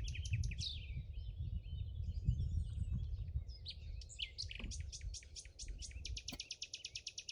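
A songbird singing rapid trills of high chirps, about ten a second. The trill breaks off briefly and gives way to softer, more varied twittering, then resumes and runs faster near the end, over a low rumbling noise.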